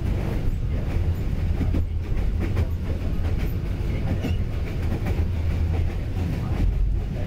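Train running at speed, heard from inside a passenger carriage: a steady low rumble with wheels clattering over the rail joints.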